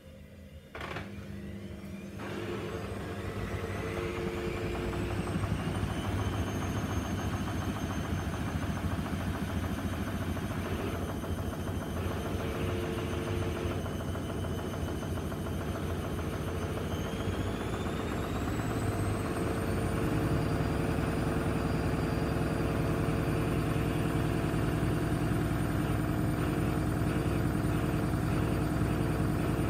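Gorenje SensoCare washing machine's drum spinning up for the spin cycle: the motor whine rises in pitch twice, about a second in and again about two-thirds of the way through. It then holds steady at high speed with a loud hum from the spinning drum.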